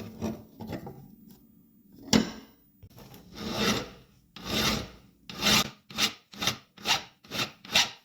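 Hand file strokes rasping across a workpiece: a few slow, long strokes, then about six quick strokes roughly two a second that stop abruptly at the end.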